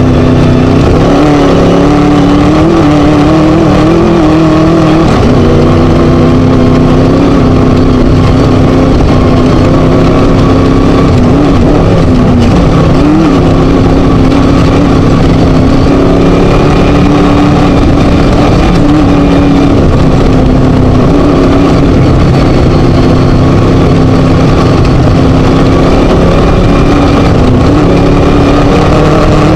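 Class 1 desert race buggy's Scat V4 engine running hard and loud at high revs. Its pitch dips briefly a few times, as the throttle comes off or a gear changes, and climbs straight back.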